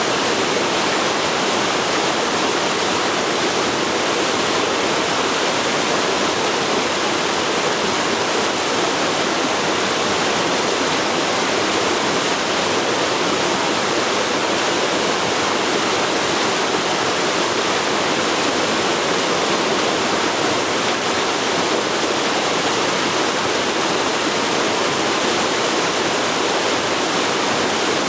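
Forest river flowing: a steady, even rush of water.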